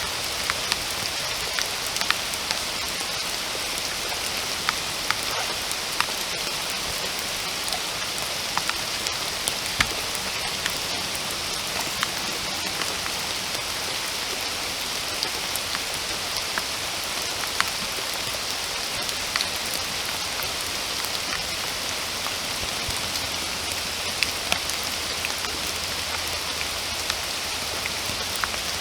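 Steady rainfall in a forest: an even hiss of rain with many individual drops clicking sharply on leaves and surfaces close by.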